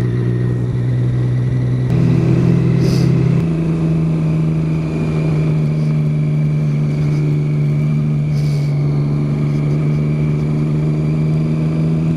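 Motorcycle engine with an Arrow aftermarket exhaust can, running at a steady cruise. Its note steps up once, about two to three seconds in, then holds.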